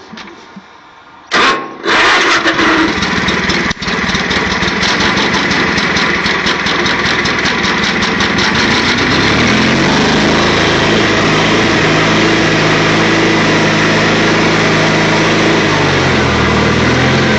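Craftsman III lawn tractor's 20-horsepower Onan twin-cylinder engine, not yet warmed up, firing up about two seconds in after a brief crank. It runs rough and uneven at first, then settles into a steady, even run about ten seconds in.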